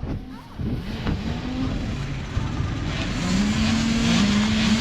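Several small youth dirt bike engines running and revving together, growing louder about three seconds in.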